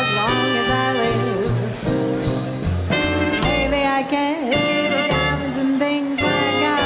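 Small swing band playing an instrumental chorus: trumpet and saxophone lines over a rhythm section with a walking bass.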